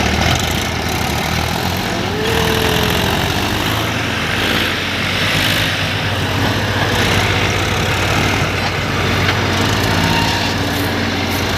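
Massey Ferguson 7250 tractor engine running steadily, its low engine note holding without a break.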